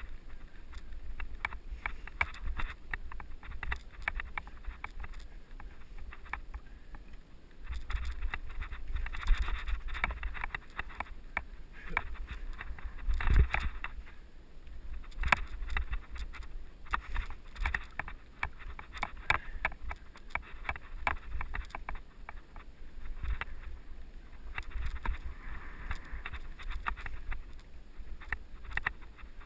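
Giant mountain bike rolling over a dirt trail: tyres crunching over gravel and the bike and camera mount rattling constantly, with gusts of wind buffeting the helmet-cam microphone and a heavier jolt about halfway.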